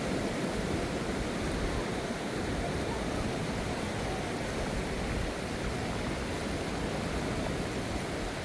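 Ocean surf washing onto the beach: a steady, even rush of water noise.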